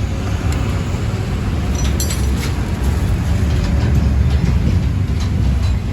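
Steady low vehicle rumble, with a few light clicks and taps about two seconds in and again near the end.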